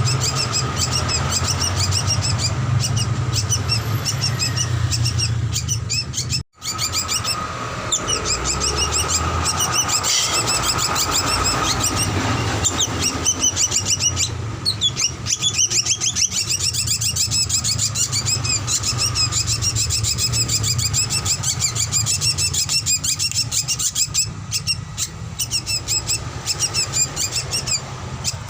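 Drongo (srigunting) calling in a long run of rapid, repeated chirps and whistles, played as a master recording to prompt caged birds to sing. A steady low hum runs underneath. The sound cuts out completely for an instant about six and a half seconds in.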